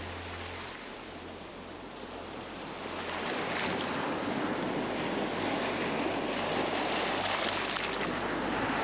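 Steady rushing of wind and surf, growing louder about three seconds in.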